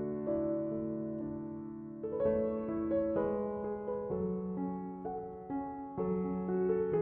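Soft, slow piano background music: sustained notes and chords changing every second or so, with no car or road sound.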